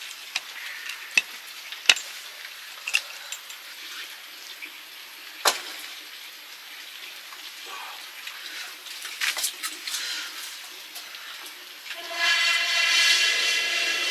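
Food frying in a pan over a cooking fire: a steady sizzle with occasional sharp clicks and taps of a stirring utensil. Near the end a louder, steady whistling hiss comes in for about two seconds.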